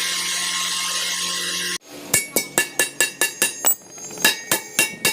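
A machine runs steadily, then cuts off abruptly under two seconds in. A quick series of hammer blows on metal follows, ringing, about five a second, with a short pause in the middle.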